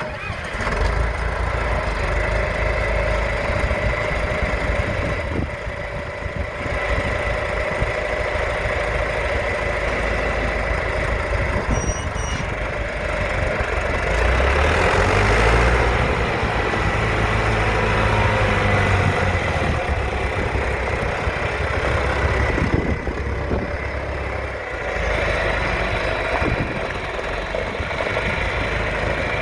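John Deere 410-D loader/backhoe's diesel engine running steadily, its engine speed rising and then falling back over several seconds around the middle.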